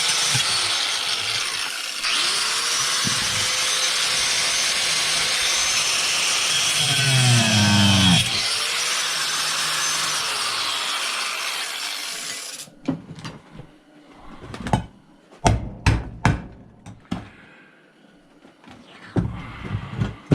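A handheld power cutting tool runs loud, cutting into the chop saw's metal housing to remove a screw. The motor's pitch dips and climbs back a couple of times, then the tool stops suddenly about two-thirds of the way through. Scattered knocks and clatter of metal parts being handled follow.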